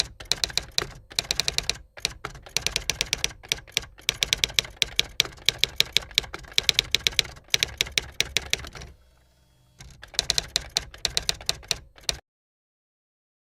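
Rapid typewriter-like keystrokes clacking in quick runs, with a short lull about two-thirds through, cutting off abruptly about a second before the end.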